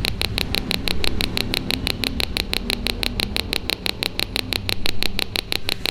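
Small speaker driven by a BC547/BC557 transistor rain-alarm oscillator with a 1 µF timing capacitor, giving a fast, even train of high-pitched chirps, about eight a second. The small capacitor charges and discharges quickly, which is what keeps the pulse rate high and the sound continuous.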